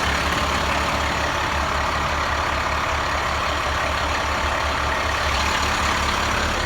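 International DuraStar bucket truck's diesel engine idling steadily with an even low pulse.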